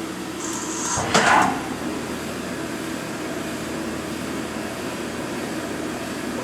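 Haas VF3 CNC vertical machining center running its program, a steady machine hum. A short high hiss comes just before a second in, followed at once by a brief louder mechanical burst.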